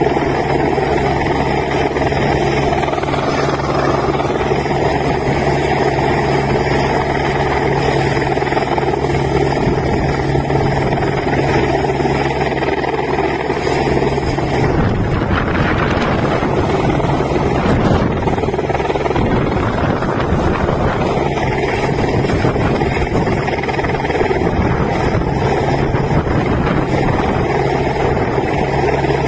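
Helicopter rotor and engine running steadily at close range, a continuous loud, unbroken drone.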